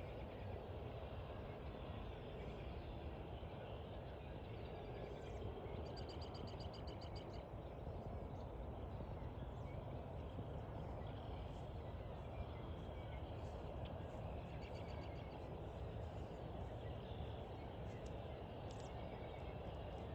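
Wild birds calling over a steady low background rumble: a rapid high trill about six seconds in, another about fourteen seconds in, and scattered short high chirps between them.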